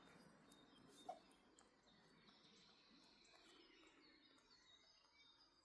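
Near silence with faint bird chirps and a brief, slightly louder sound about a second in.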